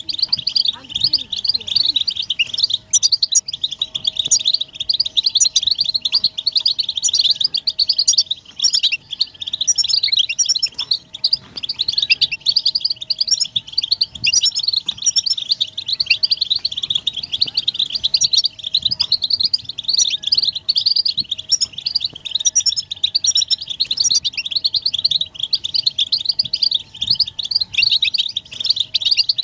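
European goldfinches twittering in a dense, unbroken stream of fast, high chirps and trills.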